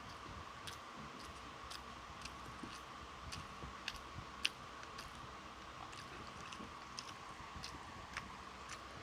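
Person chewing and biting food close to the microphone: irregular small clicks and smacks, one sharper about halfway through, over a faint steady hum.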